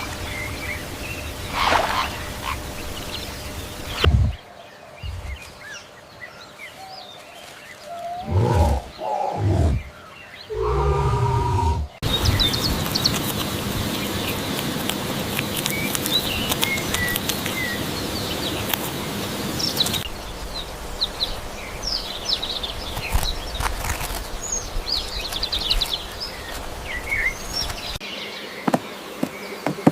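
Several separate outdoor animal recordings cut together: bird chirps, with a few short pitched animal calls about a third of the way through.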